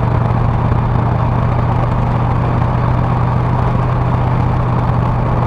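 Ford 351 Windsor V8 of a 1977 Ranchero GT, its carburetor freshly rebuilt, running steadily with a constant low hum.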